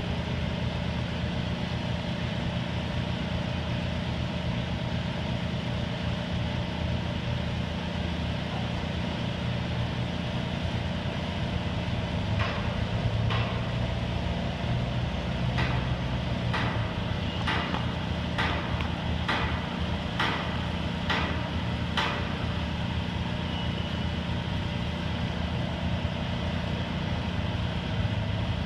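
Detroit Diesel engine of an American Hoist & Derrick 9530 crane running steadily. Around the middle, a run of about ten sharp knocks comes roughly one a second.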